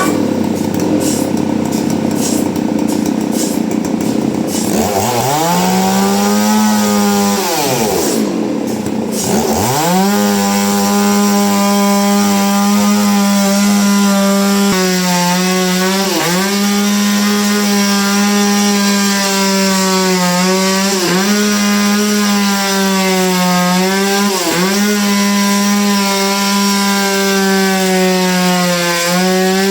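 Chainsaw revving up, dropping, then running at high steady speed in a cut through hardwood, its pitch dipping briefly several times as the cut loads it. Before it revs up there are a few seconds of noisy rasping.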